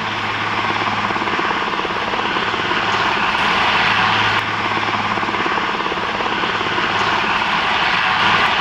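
Marine One presidential helicopter running loud and steady, its rotor chop and turbines filling the air as it waits to lift off.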